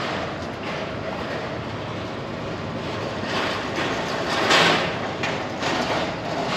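Steady rolling noise of a vehicle moving slowly, with a brief louder rush about four and a half seconds in.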